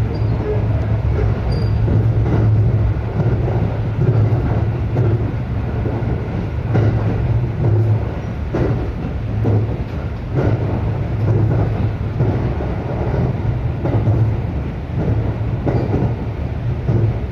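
Local electric train running along the line, a steady low rumble with irregular knocks from the wheels passing over rail joints.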